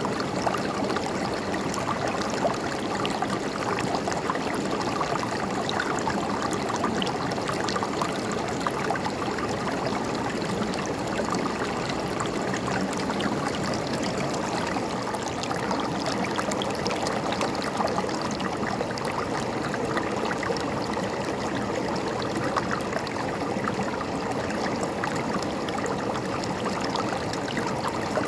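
A river running over rocks, a steady rush of water with many small splashes and gurgles.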